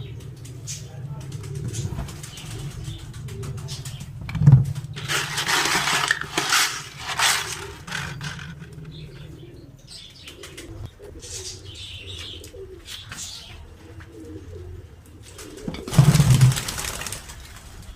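A flock of pigeons cooing steadily, with two louder noisy spells of wing flapping or scuffling: one about four to seven seconds in, the other near the end.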